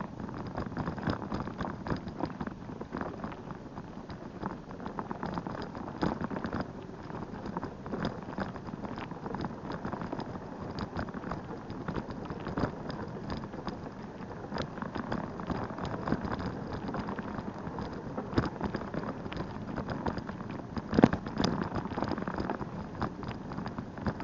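Bicycle riding noise: a steady rustle of tyres rolling along a path, full of small crackles and clicks, with one louder knock about 21 seconds in.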